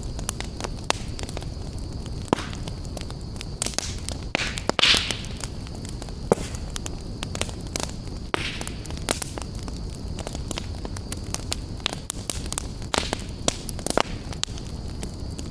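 Fireplace fire burning, with frequent irregular sharp crackles and pops over a steady low rumble. A louder hissing pop comes about five seconds in, and another about eight seconds in.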